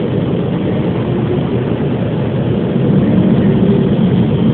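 Car wash air-dryer blowers roaring steadily over the car, heard from inside the cabin, growing somewhat louder about three seconds in as the car passes the blowers.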